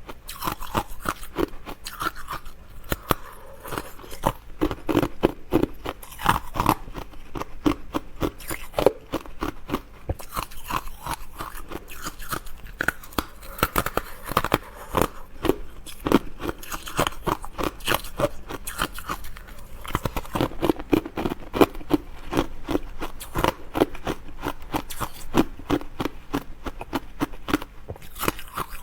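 Close-miked chewing of crisp food: a continuous run of sharp crunches and crackles from biting and chewing.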